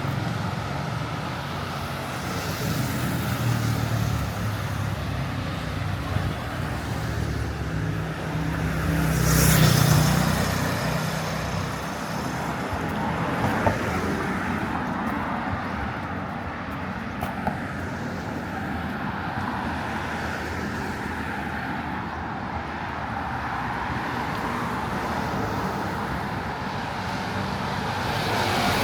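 Steady city street traffic: car and motorbike engines and tyres making a continuous low rumble. One vehicle swells past about a third of the way in, the loudest moment.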